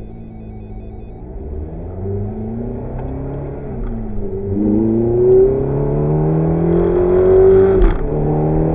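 Ferrari engine accelerating hard from inside the cabin, its revs climbing in pulls. The pitch drops at each upshift of the paddle-shift gearbox, most sharply about eight seconds in.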